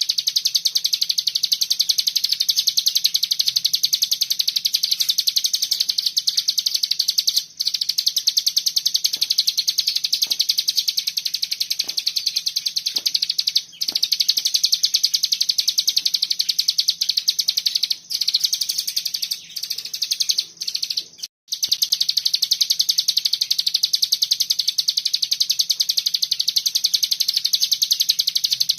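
A cigun (ciblek gunung) singing its dense 'bren' song, a very fast high rattling trill like a machine gun, almost without pause. It breaks off briefly a few times, most often around two-thirds of the way through.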